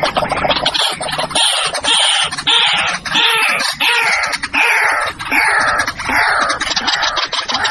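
White-breasted waterhen calling: loud harsh notes, each falling in pitch, repeated about twice a second over a rapid ticking.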